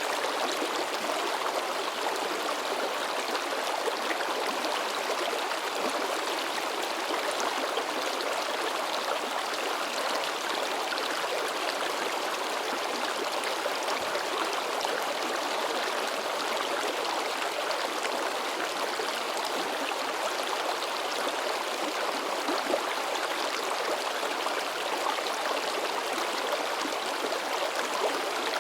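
Mountain stream babbling and splashing over rocks, a steady rush of running water.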